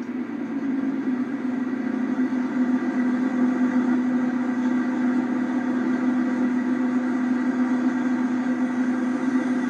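Car engine running at a steady speed, a constant drone that holds one pitch.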